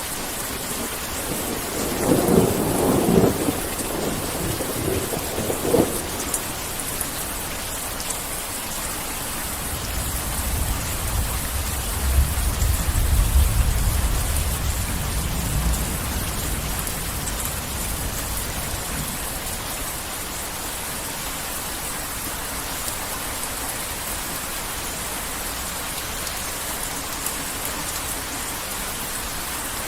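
Heavy rain falling steadily with thunder: a sharp crackling clap a couple of seconds in, then a deep rumble that swells and fades away around the middle.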